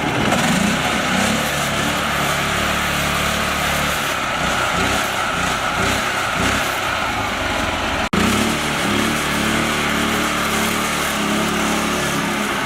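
Mini tractor engine running steadily, its pitch shifting a little now and then, with a brief break about eight seconds in.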